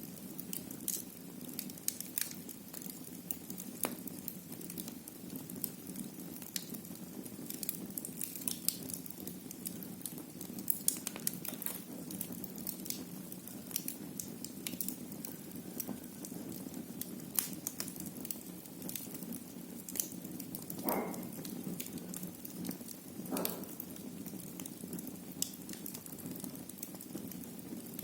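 Wood fire burning in a fireplace: irregular sharp crackles and pops over a steady low rush of flame, with two short louder sputters about three-quarters of the way through.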